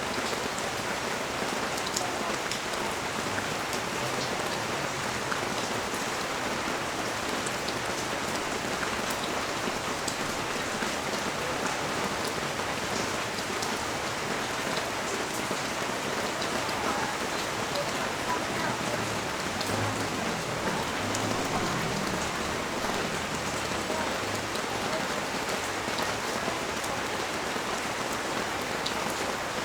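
Steady rain falling on a street and its surroundings, with scattered sharp drip clicks standing out from the even hiss of the downpour.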